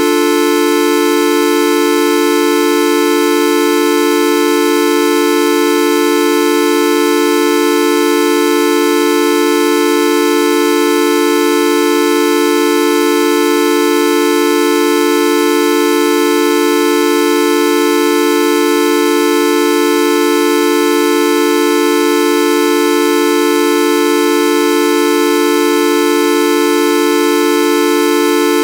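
A loud, continuous horn-like electronic tone held at one unchanging pitch with many overtones, the "Videoup V1.2" sound effect looped without a break.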